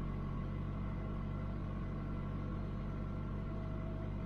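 Mitsubishi Eclipse GSX's turbocharged 2.0-litre four-cylinder engine idling steadily, heard from inside the cabin. The idle air control valve has just been replaced and the idle is still high, not yet settled or adjusted.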